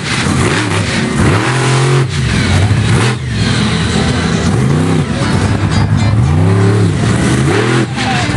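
Monster truck engine revving hard over and over, its pitch sweeping up and falling back several times.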